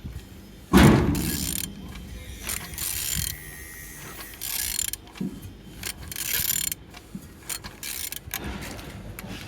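Honda K20A4 inline-four being turned over by hand with a ratchet wrench: irregular ratchet clicks and the clatter of the turning engine, with a loud clunk about a second in. The engine turns freely and is not seized.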